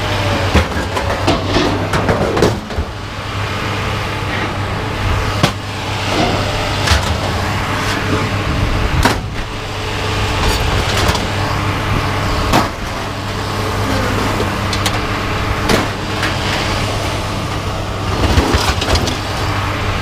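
An engine runs steadily under a series of sharp metal clanks and knocks as scrap metal is handled and unloaded.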